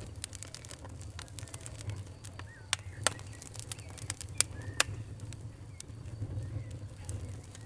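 Wood fire crackling: irregular sharp pops and snaps over a low steady rumble, with a handful of louder pops in the middle.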